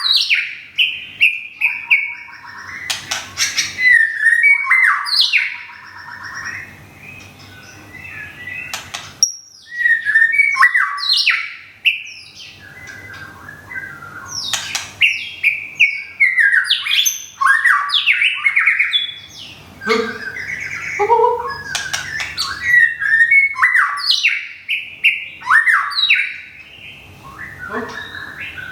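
White-rumped shama singing: bursts of varied clear whistles, sweeping pitch glides and quick trilled phrases, broken by short pauses.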